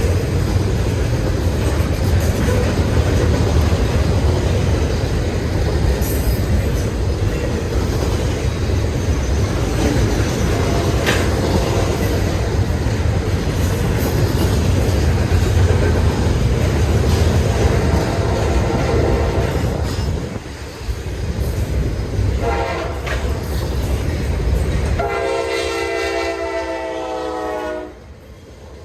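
A train rolling past close by, a loud steady rumble of wheels and cars. Near the end a locomotive air horn sounds one chord for about three seconds, then cuts off.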